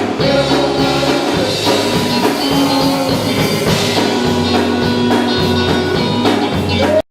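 Live gospel group music with a band: drums, bass and guitar playing steadily, with some singing. It cuts off suddenly at the very end.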